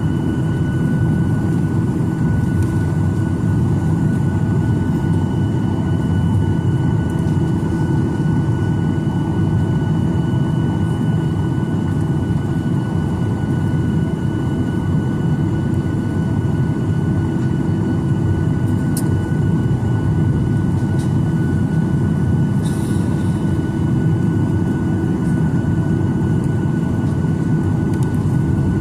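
Steady cabin noise inside a Boeing 737-900ER airliner with its CFM56 jet engines running: a low even rumble with a few fixed whining tones over it. It neither rises nor falls. A couple of faint clicks fall in the second half.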